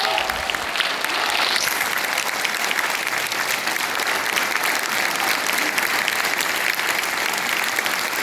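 Theatre audience applauding steadily with many hands clapping, greeting the new actress's initiation.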